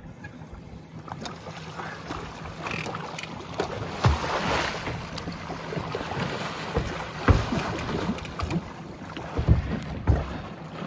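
Wind on the microphone and water moving along a boat's hull, with a rush of splashing about four seconds in and several dull knocks in the second half.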